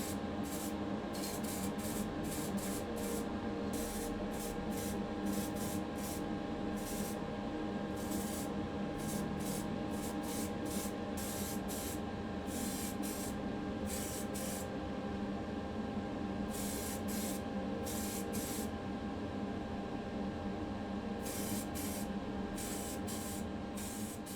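Paint being sprayed in many short bursts, each about a second or less, with brief pauses between, over a steady electric motor hum.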